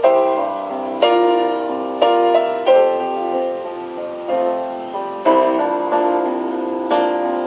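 Piano playing a slow instrumental intro: soft chords struck about once a second, each ringing and fading before the next.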